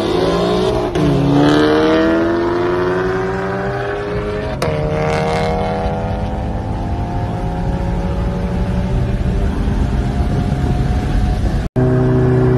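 Ford Mustang GT's V8 with aftermarket intake and exhaust at full throttle, heard from inside the cabin: the engine note climbs, drops at an upshift about four and a half seconds in, then climbs again more slowly for the rest. The sound cuts out for an instant near the end.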